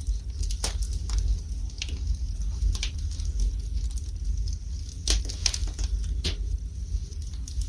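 Wood fire burning in a fireplace: irregular crackles and pops over a steady low rumble, with a cluster of sharper snaps about five to six seconds in.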